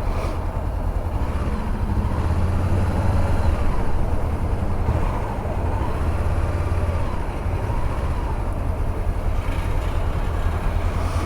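2014 Honda CB500X's 471 cc parallel-twin engine running under way in traffic, heard as a steady low rumble mixed with wind and road noise.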